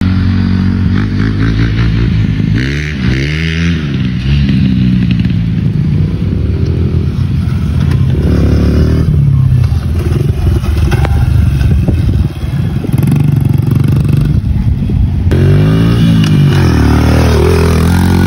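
Small Honda dirt bike's single-cylinder four-stroke engine running, its pitch rising and falling as the throttle is opened and closed, about three seconds in and again near the end.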